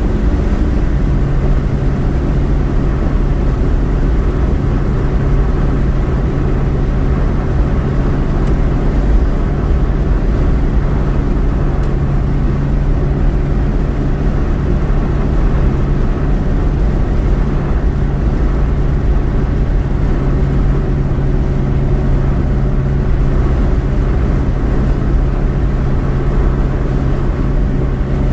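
Steady road and engine noise heard from inside a moving car, with a constant low drone.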